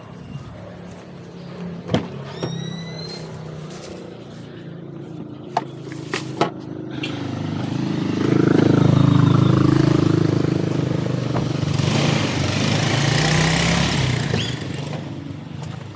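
A vehicle running at a steady low hum, with a few sharp clicks and knocks in the first half. About halfway through, the engine and road noise swell loudly for several seconds, then ease off near the end.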